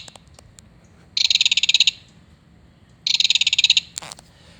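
Recorded belted kingfisher rattle call played from a plush bird's sound box: two short, rapid, dry rattles, one about a second in and one about three seconds in. A brief click comes near the end.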